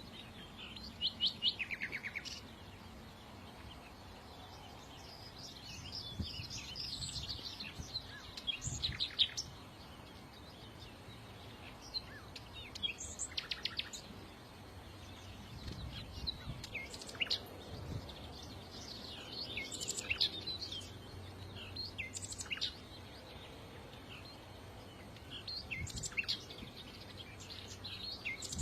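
Songbirds chirping and twittering in quick high trills, in short bouts every few seconds with brief pauses between.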